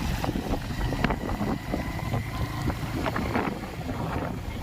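Motorcycle on the move: a steady low rumble with wind buffeting the microphone, and scattered short clicks and rattles on top.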